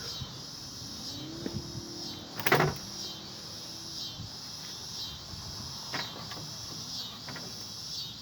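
Crickets chirping steadily, with metal parts being handled while an ice maker is taken apart: a faint hum starts about a second in and holds for a few seconds, a sharp clank comes at about two and a half seconds, and a few lighter knocks follow.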